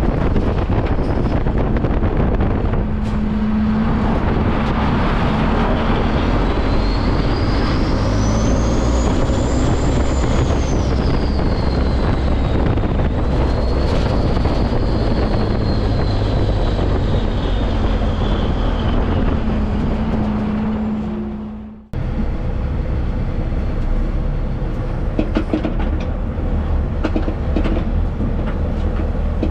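Semi truck on the road: steady engine and road noise, with a high whistle that rises and falls twice. The sound fades out and breaks off about 22 seconds in, then picks up again.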